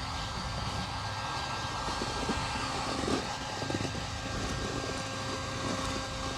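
Steady hum of a small motor with a few faint knocks of handling near the middle.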